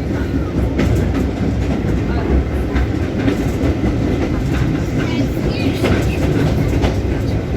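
Heritage railway train running along the track, with a steady low rumble of the wheels and scattered clicks over the rail joints.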